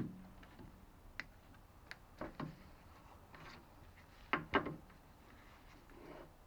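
Scattered light clicks and knocks from tools and a small workpiece being handled at a lathe, with two louder clusters of knocks about two and four and a half seconds in; no steady machine running.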